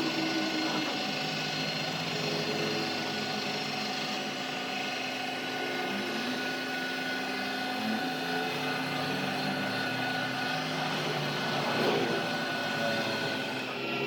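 A machine running steadily, a constant hum with a higher whine above it.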